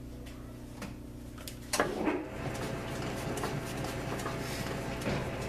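South Bend lathe running with a steady hum; a little under two seconds in, a click, then a louder rough rattling and scraping as the chuck-held drill bit is fed into the end of a motorcycle handlebar to open up its bore.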